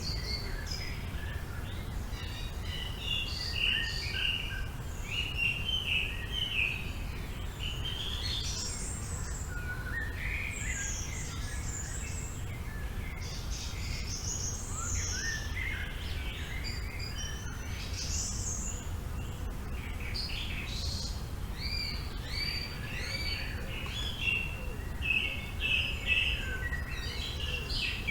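Several songbirds chirping and singing, with short calls, quick up-and-down sweeps and trills overlapping throughout, over a low steady rumble.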